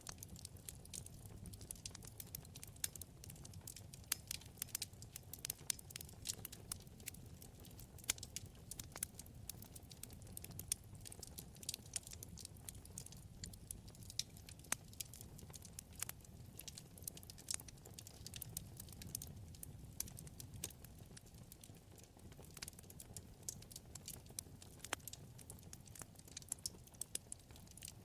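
Wood fire crackling in a fireplace: many small, irregular sharp crackles, several a second, over a low steady rumble.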